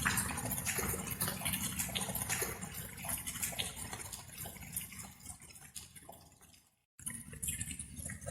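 Water dripping in many separate drops, like light rain, over a steady low rumble. It fades away to complete silence about two-thirds of the way through, then starts again abruptly, the join of a looped recording.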